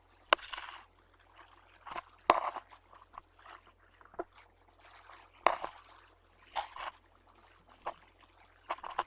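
A sleeping dog snoring and snuffling: short noisy breaths at uneven gaps of one to three seconds, some starting with a sharp click.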